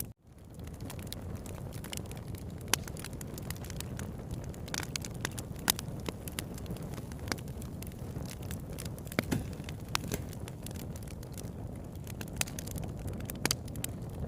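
Wood campfire crackling, with sharp irregular pops over a steady low rush of the flames. The sound drops out for an instant right at the start and comes back within about half a second.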